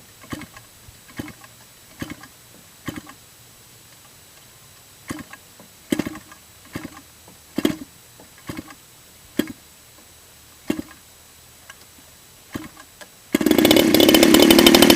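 A flooded DLE-30 30cc two-stroke gasoline engine being flipped over by hand. There are short thumps at irregular intervals, then it catches about 13 seconds in and runs loudly.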